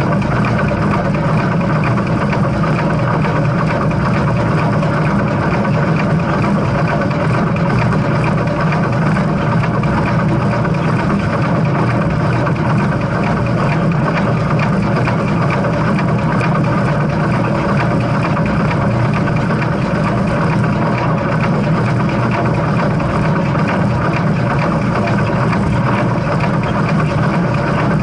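Steady, even rumble of a steam train, with no whistle and no separate chuffs or knocks standing out.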